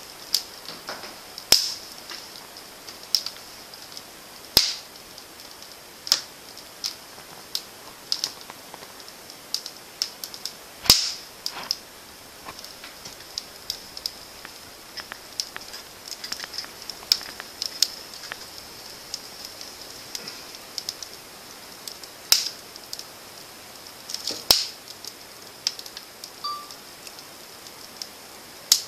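Wood fire crackling in a fireplace: irregular snapping pops over a faint steady hiss, a few of them sharply louder.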